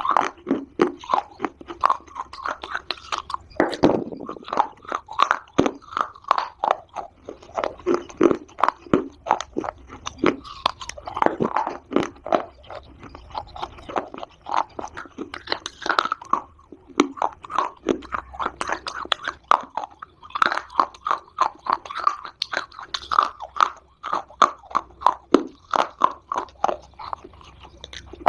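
Dry Multani mitti (fuller's earth clay) being bitten and chewed close to the microphone: a dense run of sharp, brittle crunches several times a second, with a couple of brief lulls.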